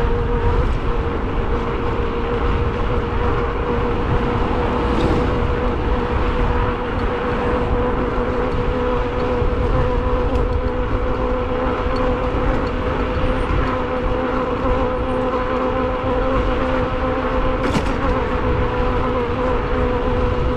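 An e-bike in motion at a steady speed: a steady, even-pitched motor whine over heavy rumbling road and wind noise.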